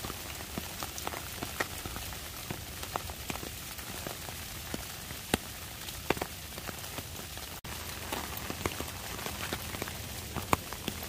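Heavy rain falling steadily in woodland, with sharp taps of single large drops striking close by. The sound cuts out for an instant about two-thirds of the way through.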